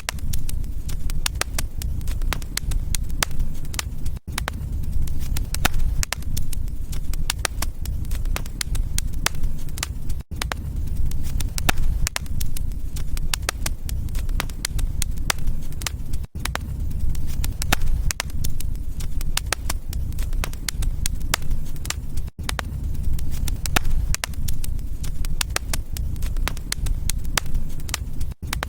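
Wood fire burning in a fireplace: a steady low rumble of flame with many sharp crackles and pops. The sound cuts out for an instant about every six seconds.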